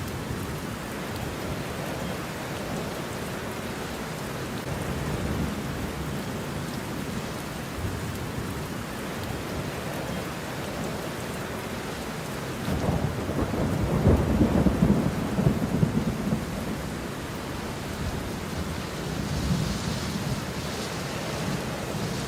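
Steady rain with rolling thunder. A long low rumble swells about halfway through and fades over a few seconds, and a smaller rumble comes near the end.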